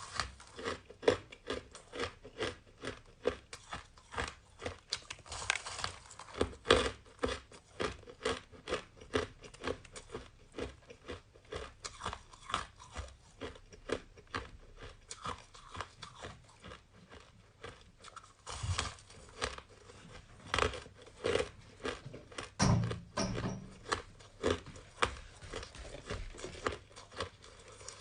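Purple-flavoured shaved ice crunched and chewed close to the mouth. The crunches come in a dense, even run of about two to three a second.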